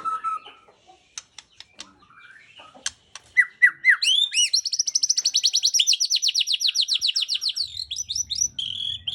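White-rumped shama (murai batu) singing: a few sharp clicks, then three rising whistled notes and a fast trill of rising high notes, about ten a second for some three seconds, ending in varied whistles.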